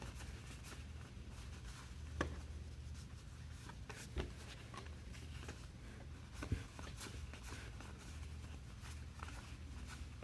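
Trading cards being handled and flipped through: faint sliding and rustling of card stock, with three light ticks spaced about two seconds apart, over a steady low hum.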